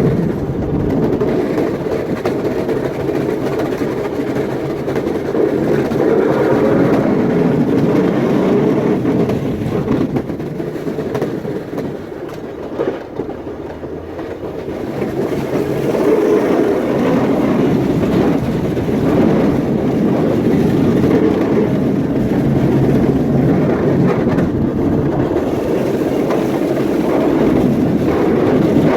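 Snow-clearing machine running steadily with a loud mechanical drone, easing off for a few seconds about halfway through and then coming back up to full level.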